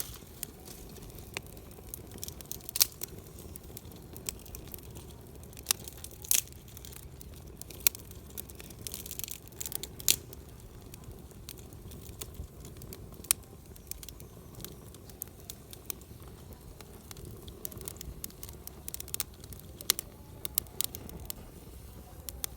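Wood fire crackling: irregular sharp pops and snaps, scattered unevenly, over a steady low background.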